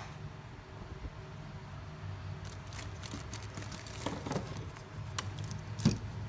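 A steady low hum from bench equipment, with a scatter of small clicks and taps from tools being handled in the second half. The sharpest click comes near the end.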